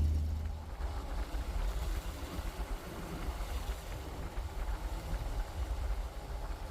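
Low, uneven rumble of a truck's engine and running noise on the road, dropping in level during the first second and then holding steady.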